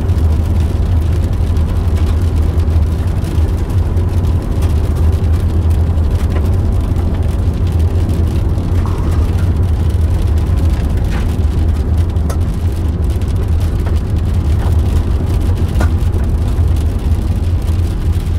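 Car driving on an unpaved farm road, heard from inside the cabin: a steady low rumble of tyres and engine, with a few faint ticks.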